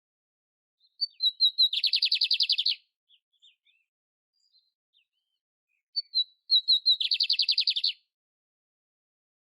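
Canário império (canary) singing: two repeated phrases, each a short run of separate high chirps leading into a rapid, dense trill lasting about a second, with a few seconds of pause between phrases.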